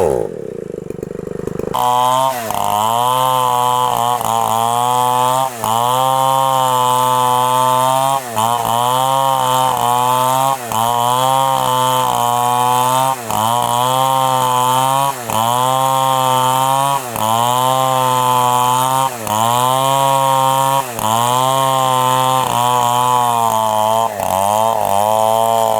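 Chainsaw cutting into a very thick tree trunk, its engine note sagging and climbing back about every two and a half seconds as it labours under the load. Just after the start the engine drops off sharply for about a second and a half, then picks back up.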